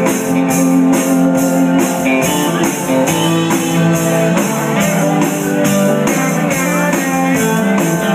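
A live band playing an instrumental passage between vocal lines: guitar lines over a drum kit keeping a steady beat.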